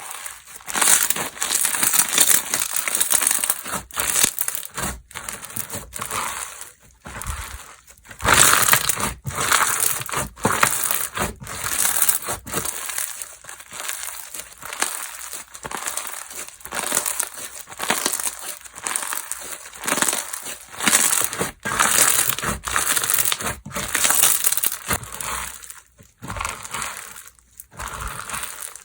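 Slime being squished, stretched and folded by hand, giving an irregular run of crackly squelches and small pops with brief pauses between handfuls.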